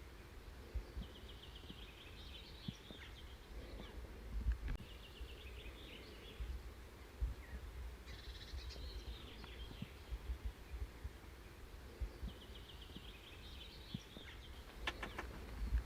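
A songbird singing short rapid trilled phrases, repeated about four times, over a low gusty rumble with occasional thuds. A few sharp clicks come near the end.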